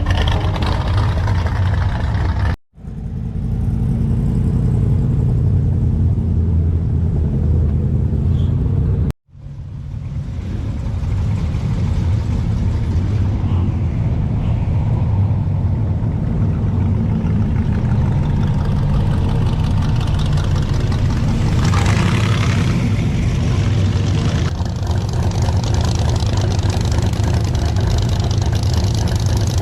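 Car engine running at idle with a steady low exhaust note. The sound cuts out briefly twice near the start.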